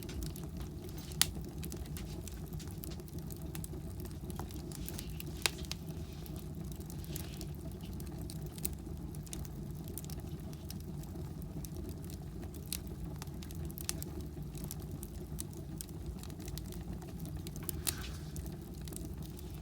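Firewood burning in a fireplace: a steady low rumble with scattered sharp crackles and pops, the loudest about a second in and at about five seconds.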